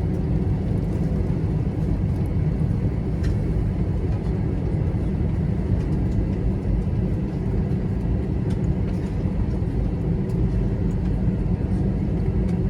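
Steady low rumble inside the cabin of an Airbus A321-200 taxiing after landing, its engines running at idle, with a faint steady hum and a few light ticks over it.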